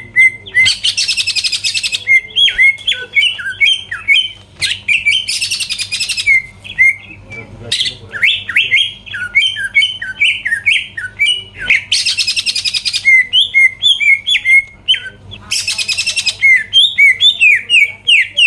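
Green leafbird (cucak ijo) singing continuously in full, excited song: a run of quick, varied whistled notes, broken four times by a dense, very high buzzing trill about a second long.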